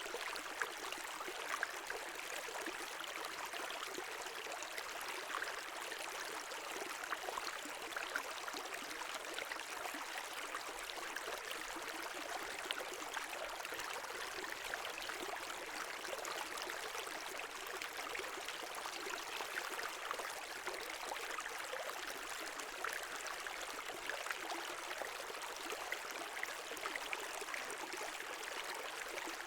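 Brook water running steadily over stones, a continuous babbling rush with small splashes flickering through it.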